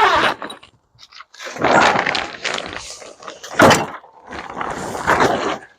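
Scrap metal parts from stripped microwaves clattering and scraping as they are handled and dropped, with a sharp knock about three and a half seconds in.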